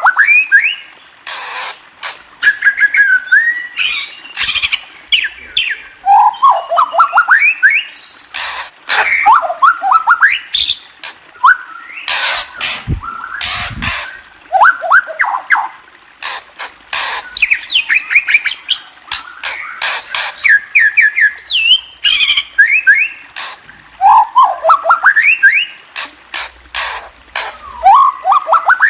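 A murai songbird singing loudly: repeated phrases of quick rising whistled notes, mixed with many sharp, harsh clicking calls.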